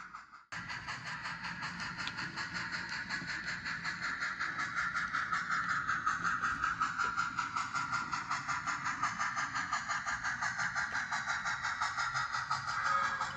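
HO-scale model train running on the layout, a steady mechanical sound with a fast, even pulsing rhythm. It drops out briefly just after the start.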